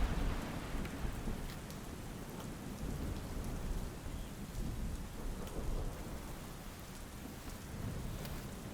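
Steady heavy rain with rolling thunder. The rumble is loudest at the start and dies down over the first second or so, then goes on more softly under the rain, with scattered drop ticks.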